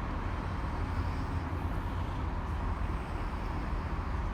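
Steady low rumble of background noise at a railway station, with trains and traffic running, and no single event standing out.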